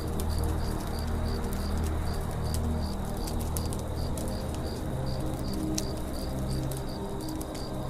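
Campfire crackling with scattered sharp pops, over a high chirp repeating about three times a second and low held tones.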